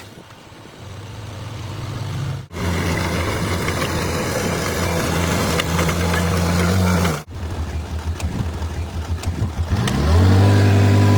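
Bulldozer's diesel engine running and working, a low steady note that steps up and gets louder near the end. The sound cuts out abruptly twice.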